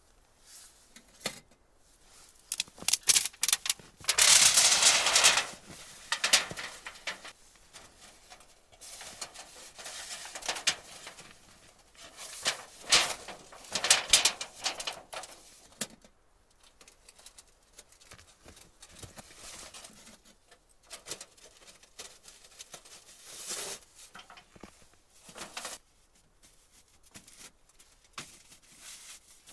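Irregular rustling and crunching with scattered clicks, typical of handling gear or clothing. It is loudest in a long burst about four seconds in and in a cluster of bursts around twelve to fourteen seconds.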